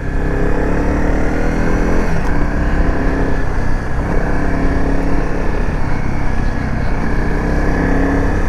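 Dirt bike engine running while ridden, its pitch climbing over the first two seconds, dropping at about two seconds, then holding fairly steady.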